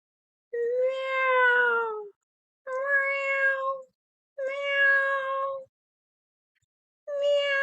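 A woman imitating a cat with her voice: four long, drawn-out meows, each about a second long at a fairly steady pitch, with short pauses between them.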